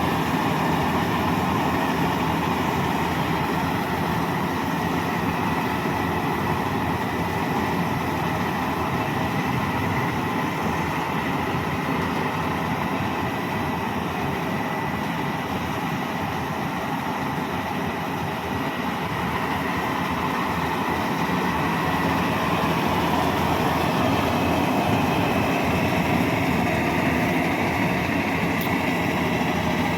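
Bimo Maxxi 102 rice combine harvester running steadily, engine and machinery droning with a thin steady whine in it.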